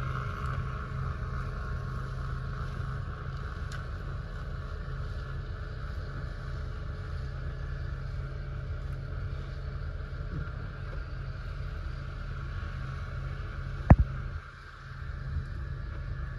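Small engine running steadily at a constant speed, with one sharp knock about fourteen seconds in, after which the sound briefly drops.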